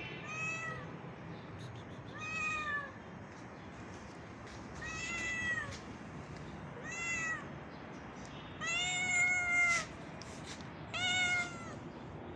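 Stray cat meowing six times, a second or two apart; each meow rises then falls in pitch, and the fifth, about nine seconds in, is the longest and loudest.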